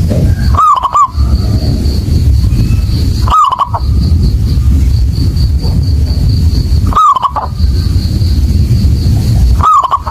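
Zebra dove (perkutut) cooing: four short rolling coos about every three seconds, over a loud steady low rumble. A faint, rapid high pulsing runs underneath.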